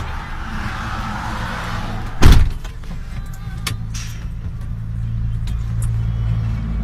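Car engine running, heard from inside the cabin, with one loud thump about two seconds in and a few light clicks after it. The engine hum grows a little stronger in the second half as the car drives on.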